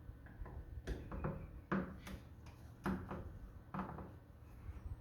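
A handful of separate sharp clicks and knocks at uneven intervals, about five in all, over a low background rumble.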